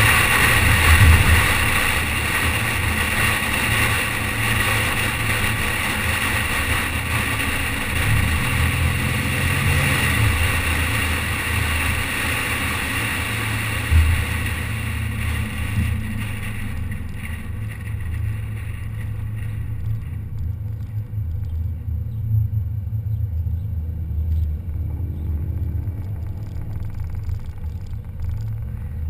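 Car running with a low engine rumble under a hiss of road and wind noise. Past the middle the hiss fades away over a few seconds, leaving the low rumble. There is a single knock about halfway through.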